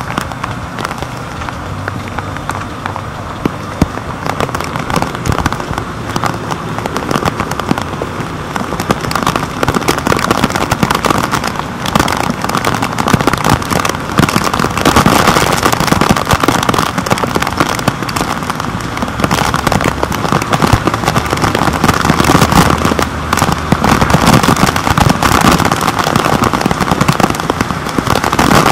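Storm rain striking a waterproof camera housing: a dense, loud crackle of drops hitting the case, growing heavier about a third of the way in.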